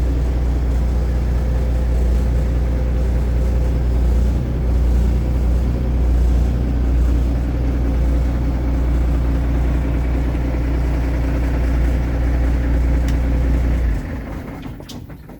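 Heavy-duty diesel engine of a 2010 Peterbilt 387 sleeper truck idling steadily. Near the end the engine sound drops off sharply and fades out.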